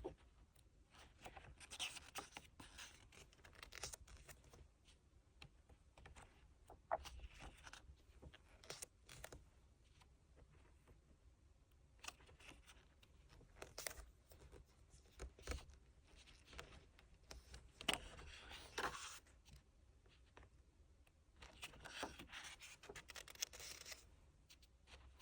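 Paper and packaging of a photobook album being handled: faint, intermittent rustling and scraping bursts with scattered light taps and clicks.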